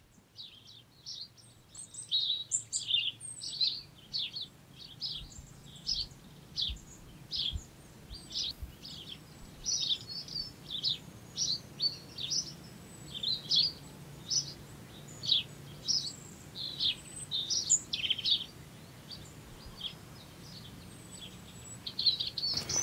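Small birds chirping outdoors: a steady run of short, quick chirps and tweets, one after another, with a faint low hum underneath.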